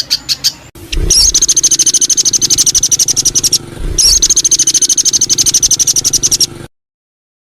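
A songbird delivering long runs of rapid, evenly repeated high notes: two bursts of about three seconds each with a short break between, then an abrupt cut to dead silence near the end.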